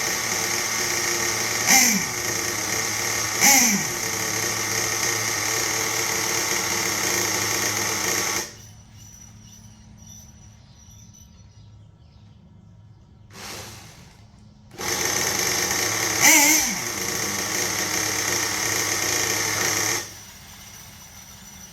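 Small nitro engine of an HPI Savage RC truck running with a steady high buzz, blipped briefly twice, then cutting out about eight seconds in. After a short sputter it runs again for about five seconds, with one more blip, before cutting out suddenly.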